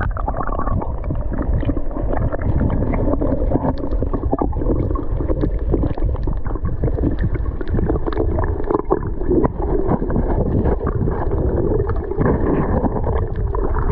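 Canoe moving on the river: steady water noise with wind buffeting the microphone, and scattered small knocks.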